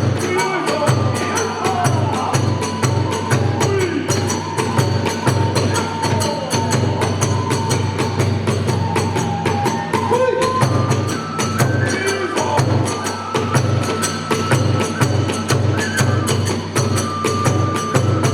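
Kagura accompaniment music: a drum beating a steady fast rhythm under constant clashing of small hand cymbals, with a bamboo flute playing a sliding melody over it.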